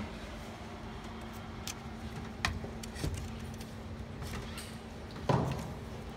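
A few separate clicks and knocks, the loudest near the end, over a steady low hum: parts of a machine being handled during disassembly or assembly.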